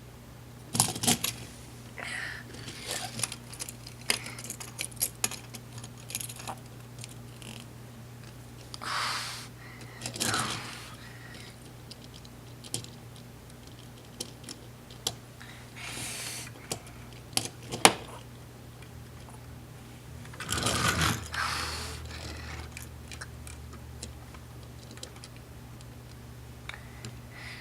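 Small plastic Lego pieces and toy cars being handled: irregular light clicks and rattles, with a few longer scraping or rustling bursts. A faint steady low hum runs underneath.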